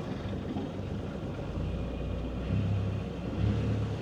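Sailboat's inboard diesel engine running at low revs while manoeuvring off a mooring: a steady low rumble that grows a little fuller about halfway through.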